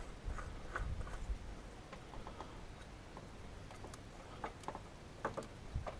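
Faint scattered clicks and light scrapes of a new oil filter being screwed on and hand-tightened under a car.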